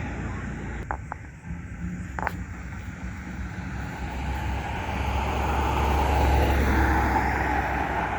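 Car driving, with steady engine and road noise that grows louder in the second half. A few light clicks sound about a second in and again after two seconds.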